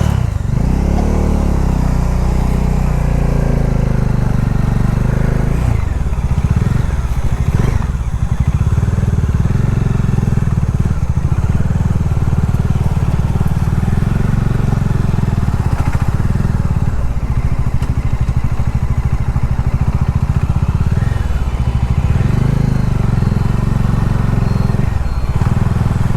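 Bajaj Dominar motorcycle engine running under way, its pitch dropping and climbing again several times as the rider eases off and accelerates.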